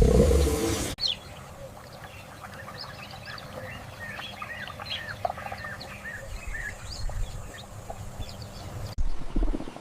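A flock of birds chirping and calling: many short chirps, some bending up or down in pitch. A louder low rumble comes in the first second and again near the end.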